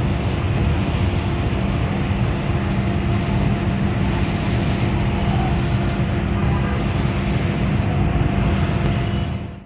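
A fire truck's engine running steadily: a continuous low rumble with a steady hum and no siren.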